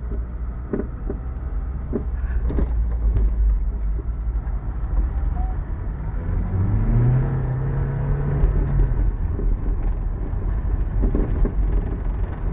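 A 1985 Toyota MR2 driving and accelerating through the gears, with a steady low rumble. About six seconds in the engine note rises and holds, then drops away about nine seconds in.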